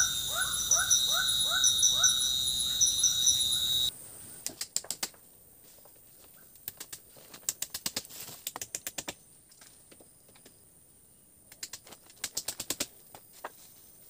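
Forest chorus of insects and calling animals: a steady high shrill with repeated rising chirps about three a second, which cuts off abruptly about four seconds in. After it come faint scattered clicks and light taps, some in quick runs.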